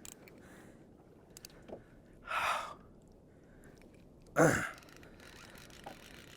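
A person sighing twice, about two and a half and four and a half seconds in, the second louder and sharper.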